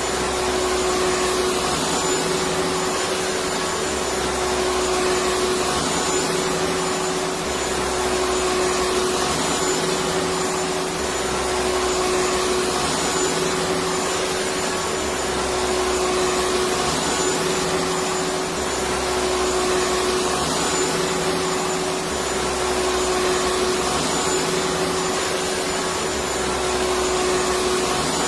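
Electric vacuum cleaner running continuously: a steady, even whir with a constant motor hum and a faint high whine, and a slight low pulse every couple of seconds.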